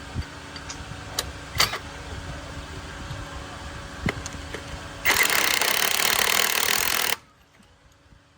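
Mechanical repair noise: scattered sharp metallic clicks and knocks over a steady hum, then a loud burst of noise lasting about two seconds that cuts off suddenly.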